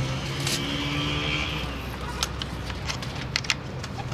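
A steady low motor hum, with a brief higher tone about half a second in and several sharp clicks in the second half.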